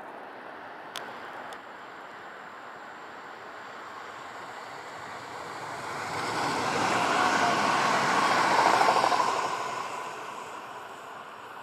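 Västtågen X61 electric multiple unit, an Alstom Coradia Nordic, passing on the main line: its running noise grows louder from about five seconds in, is loudest a few seconds later, then fades away.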